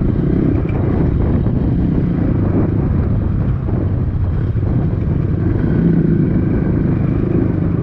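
Dirt bike engine running steadily as the motorcycle is ridden.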